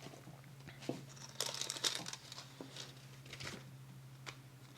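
Paper rustling and crinkling as it is handled, with a few light taps and a short burst of rustling about a second and a half in.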